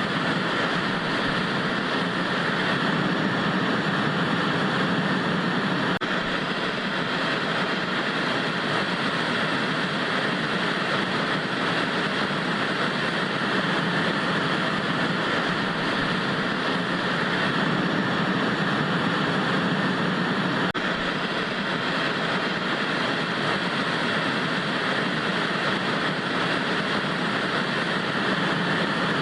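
Television static: a steady, unbroken hiss of white noise that holds an even level throughout.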